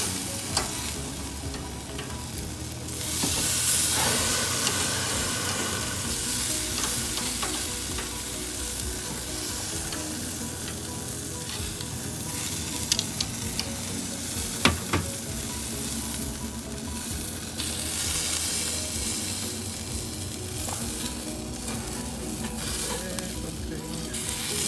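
Chicken quarters sizzling steadily on a gas grill's grate as they cook with basting oil, with a few sharp clicks, the loudest about halfway through.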